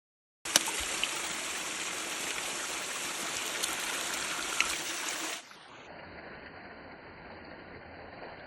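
Pork neck frying in a pan over a campfire: an even sizzling hiss with a few sharp pops. About five seconds in it drops to a quieter, duller sizzle.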